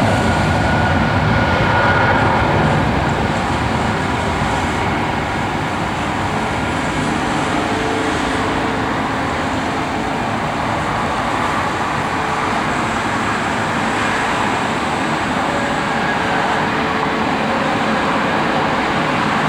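Boeing 777-300's twin jet engines at taxi power: a steady rushing noise with a faint whine, a little louder in the first few seconds.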